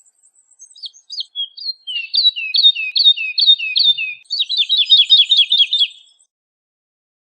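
Woodlark singing one phrase of repeated, falling whistled notes, a few slow ones at first, then a steadier run that quickens into a fast trill over its last two seconds.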